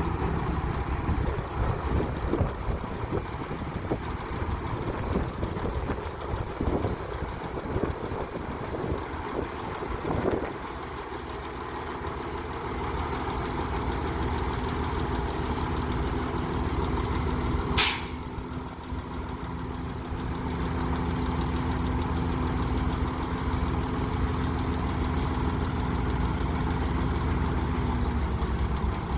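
Komatsu D60P bulldozer's diesel engine running, with frequent clanks and knocks over the first ten seconds, then a steadier run with a held tone. About 18 seconds in comes one short, sharp hiss, the loudest sound in the stretch.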